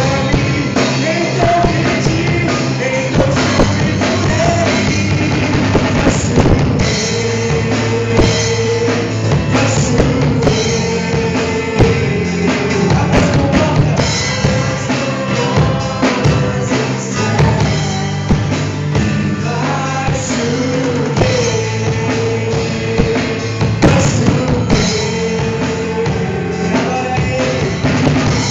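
Worship band playing in a church service: a drum kit and a low sustained bass under a long-held sung melody.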